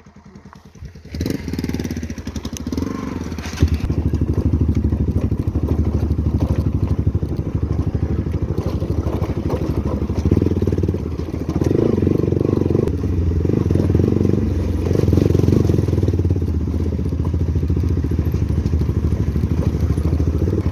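Motorcycle engine comes in about a second in and then runs steadily under load, a dense, rapid pulsing, as the bike rides off.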